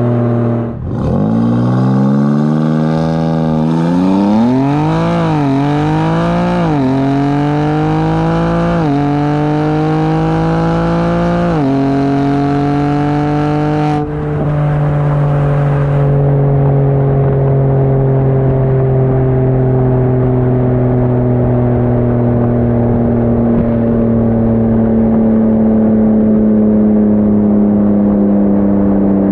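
BMW M4 Competition's twin-turbo inline-six, fitted with high-flow cats and downpipes, accelerating hard through the gears. The pitch climbs and drops sharply at each of about four upshifts. From about halfway the revs sink slowly and steadily.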